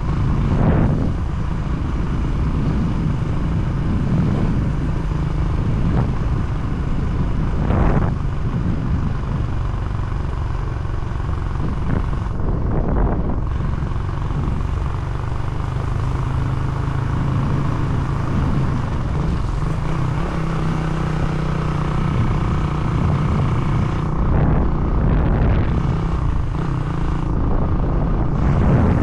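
A vehicle engine running as it drives along, its low pitch shifting a little with speed, under a steady low rumble with a few brief louder swells.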